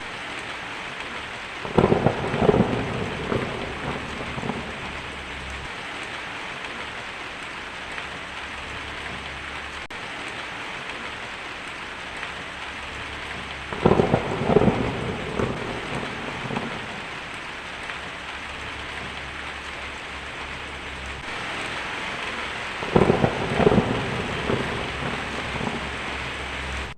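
Steady rain falling, with three thunderclaps: about two seconds in, about halfway through, and near the end, each a loud crack rumbling on for a few seconds.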